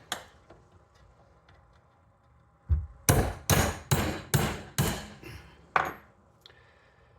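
A hammer knocking the old spark plug tube seals out of a 2002 Honda Civic's valve cover. There are about seven sharp strikes, roughly two or three a second, after a quiet start.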